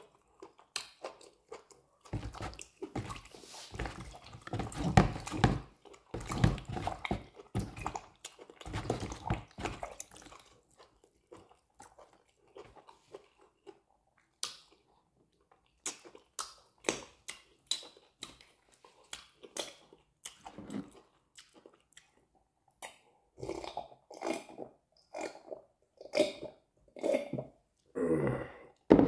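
A person eating amala and fish close to the microphone: wet chewing and lip smacking in uneven bursts, with a quieter stretch about halfway through.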